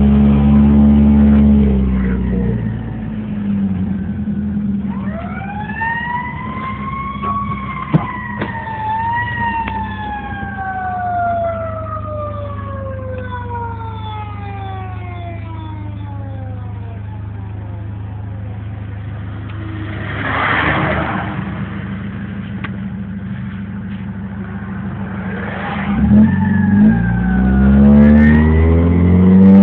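Car engine accelerating, heard from inside the cabin, under a fire truck siren that rises once and then winds down slowly over about ten seconds. The engine revs up again near the end.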